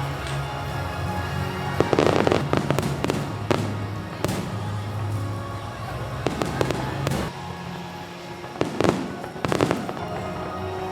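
Fireworks shells bursting with sharp cracks and crackle, in clusters about two seconds in, around six to seven seconds, and near nine seconds. Music from the show's loudspeakers plays faintly underneath.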